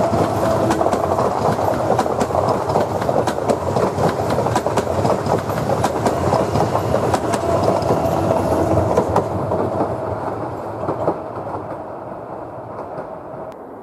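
PESA Dart (ED161) electric multiple unit passing at speed: wheels clacking over rail joints under a steady whine. The sound fades away as the last car goes by.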